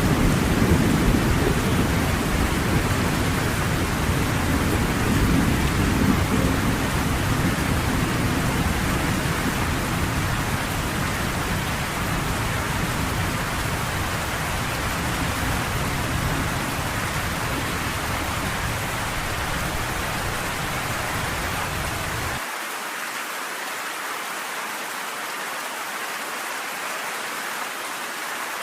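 Steady heavy rain with a deep, drawn-out thunder rumble that is strongest at the start and slowly fades. About 22 seconds in the low rumble cuts off suddenly, leaving only the hiss of the rain.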